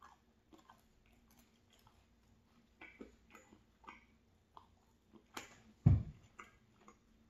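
Close-miked chewing of a soft flatbread wrap filled with scrambled egg and crispy bacon: small wet mouth clicks and smacks. A single loud low thump about six seconds in.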